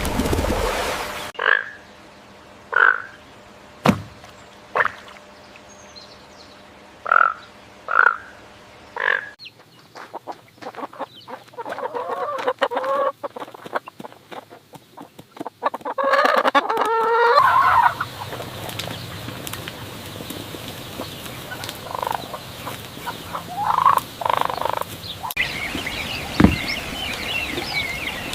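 Domestic fowl calling in a run of short cut clips: single short clucks spaced a second or two apart, then rapid warbling, gobble-like calls, and a few more scattered calls later. Small birds chirp near the end.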